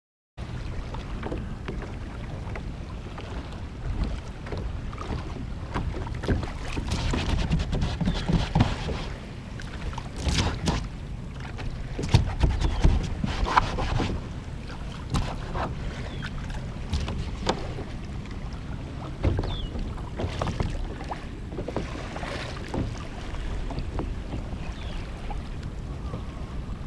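Kayak out on the water: irregular splashes and knocks of water against the hull over a steady low rumble of wind buffeting the microphone.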